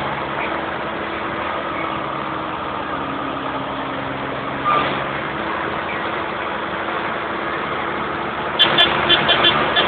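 Tractor engines running steadily in a passing column of Deutz tractors, with a brief louder sound about halfway through. Near the end a quick run of short, sharp high pulses starts over the engine noise.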